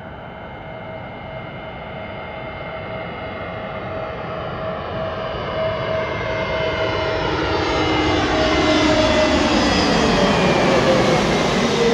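Jet airliner on landing approach, its engine whine and rush growing steadily louder as it nears. Near the end the tones slide down in pitch as it passes overhead.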